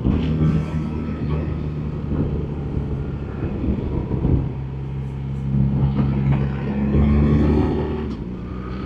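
BMW R1300GS boxer-twin engine running under way with wind noise, heard from the rider's seat. It eases off, then pulls harder again a little after halfway, the engine note getting stronger.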